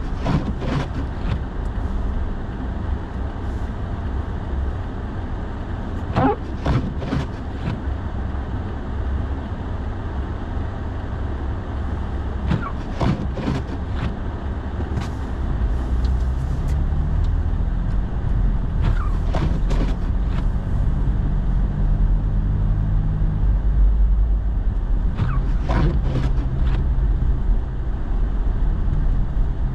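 Inside the cab of a pickup truck driving on a snowy road: steady engine and tyre rumble, with a deeper drone settling in about halfway through. The windshield wipers sweep across and back in pairs about every six seconds.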